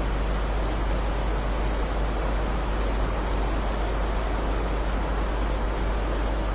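Heavy rain falling steadily: an even, unbroken hiss with a constant low rumble underneath.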